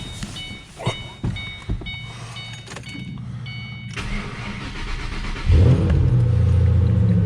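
Car's electronic warning chime beeping in even pulses for about four seconds, then a short burst of cranking, and the engine catches about five and a half seconds in and settles into a steady run. The battery was dead and has just been recharged for about an hour.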